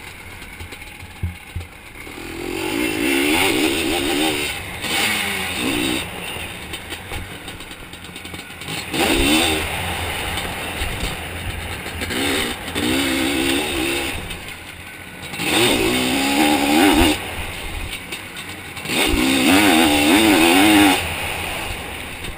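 Two-stroke Zabel 700 sidecar-outfit engine heard from on board, revving hard in about five one-to-two-second bursts with its pitch wavering, dropping back between them as the throttle is opened and shut around the track. Scattered low knocks come in between.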